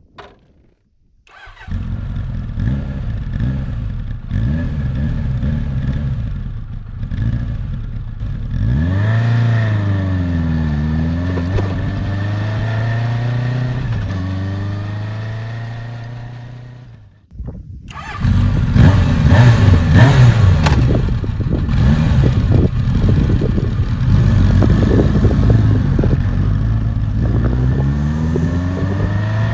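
Honda CB750F's air-cooled inline-four engine running through a Moriwaki aftermarket exhaust. It comes in about a second and a half in and holds a steady note, with the revs dipping and rising once. After a brief break near the middle it returns louder, the revs going up and down.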